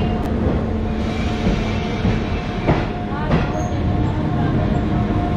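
An Astra Trans Carpatic multiple-unit passenger train rolls slowly into a station platform with a steady rumble and hum. Two brief rising squeaks come around three seconds in.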